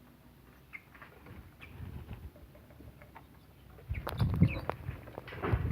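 Lovebirds in a cage giving a few faint short chirps, then from about four seconds in a run of clicks, scratching and rustling.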